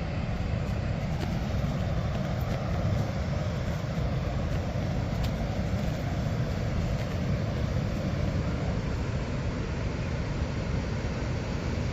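Steady roar of rushing water from a waterfall, an even rumbling noise that does not change.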